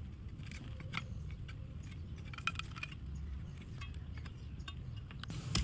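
Knife working on a coconut: scattered small clicks and taps over a low steady rumble, with a sharper click near the end.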